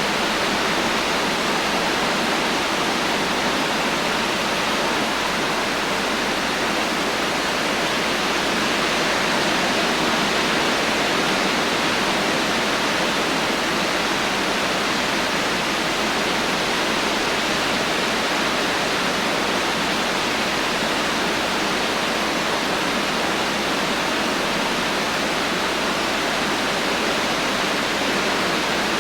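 Steady heavy rain, a constant even hiss with no thunder and no separate drops or splashes standing out.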